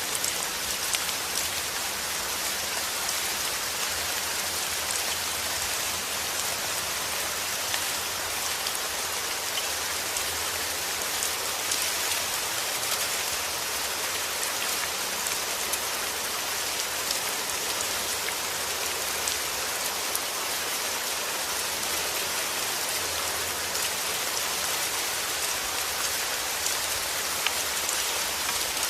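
Heavy rain falling steadily, a dense even hiss with fine patters of individual drops striking a surface.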